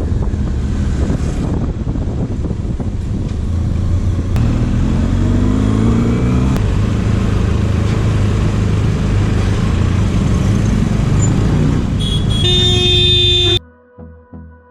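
Road traffic noise with motor vehicle engines running and one rising in pitch as it accelerates. A horn sounds for about a second and a half near the end, then everything cuts off suddenly into music with a beat.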